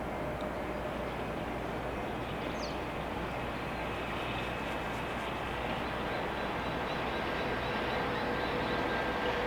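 A train approaching in the distance: a steady rumble that slowly grows louder, with faint steady whining tones coming in during the second half. A bird chirps briefly a few seconds in.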